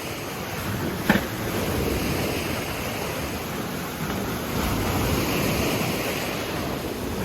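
Waves washing onto the Lake Tanganyika shore, with wind buffeting the microphone. A single short knock about a second in.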